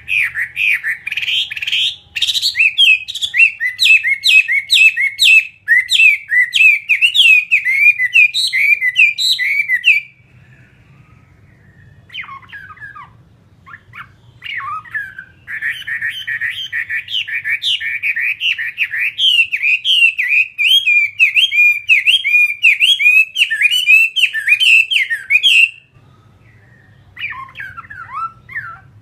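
Chinese hwamei singing loud, rapid, varied phrases in two long bouts, with a few scattered notes in a pause of about five seconds between them and again near the end.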